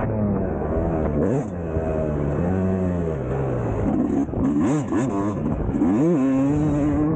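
Yamaha YZ250 two-stroke single-cylinder engine being ridden on a motocross track, its pitch rising and falling again and again as the throttle is opened and closed, then holding steadier near the end.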